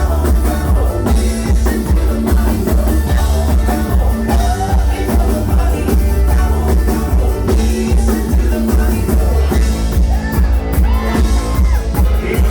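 Live band music: a bluegrass-style rock cover played loud on acoustic string instruments over a drum kit and heavy bass, with a steady beat.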